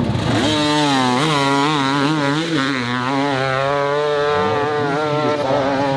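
Dirt bike engine running hard at high revs, its pitch wavering up and down as the throttle is worked.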